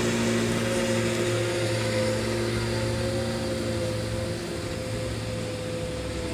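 Truck engine running at a steady pitch, a low hum that slowly gets quieter.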